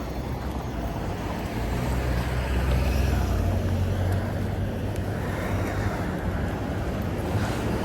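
Road traffic noise: a steady low rumble of vehicles that swells about two seconds in.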